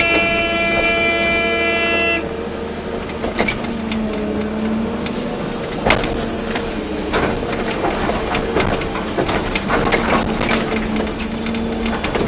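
A horn blasts once for about two seconds, over the steady running of a Volvo EC240B excavator's diesel engine, with scattered knocks and clatter from the working machine and the soil.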